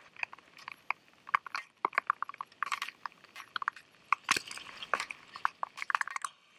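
Irregular sharp clicks and taps, many in quick succession, some with a short ringing pitch.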